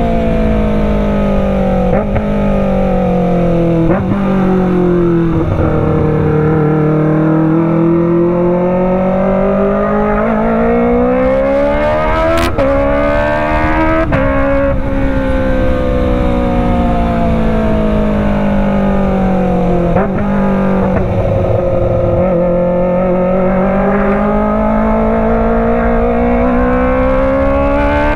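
Kawasaki ZX-25R's 250 cc inline-four engine through a Racefit Slash full-system exhaust, on the move, its pitch climbing and falling over several seconds at a time with a few sudden breaks where gears change.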